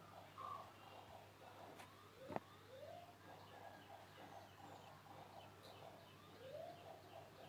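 Near silence: a faint steady hum with scattered faint chirps, and a single sharp click about two and a half seconds in.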